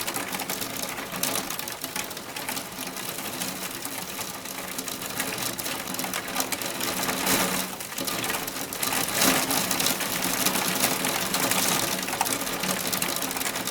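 Hailstorm: a dense, continuous rattle of many hailstones striking hard surfaces.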